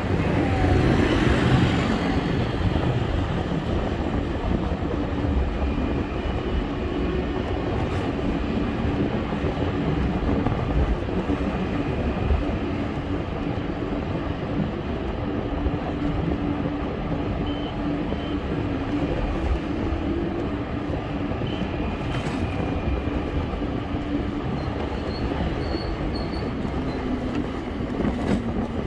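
Steady rumbling travel noise from a moving bike ride, with a low humming drone that drops slightly in pitch near the end.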